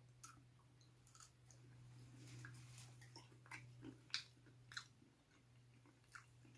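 Faint close-miked chewing of shrimp: soft, scattered wet mouth clicks and smacks, over a steady low hum.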